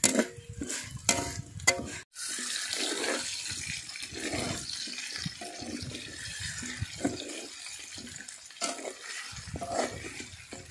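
A metal spatula clinks and scrapes in an aluminium wok as lemongrass and chillies are stir-fried. About two seconds in, a steady sizzle of chicken frying in the wok follows, with the spatula scraping as it turns the pieces.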